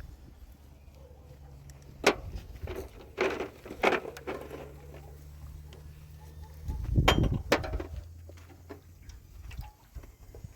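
A few sharp knocks and clinks: one about two seconds in, two close together around three to four seconds, and a louder pair around seven seconds, over a low steady hum.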